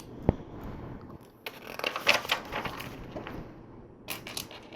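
Small plastic LEGO pieces being handled and clicked together: one sharp click just after the start, then clusters of small clicks and rustling around two seconds in and again near the end.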